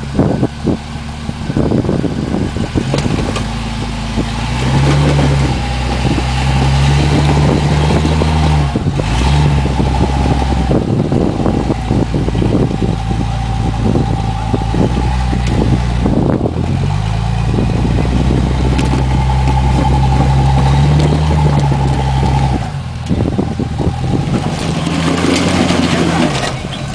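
Off-road 4x4 engine running under load, its pitch stepping up and down every few seconds as it revs and eases off, with frequent knocks and rattles throughout.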